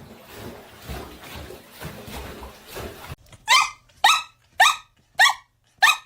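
Dog barking repeatedly in an even rhythm, five loud barks a little over half a second apart, starting about halfway in after a few seconds of low background noise.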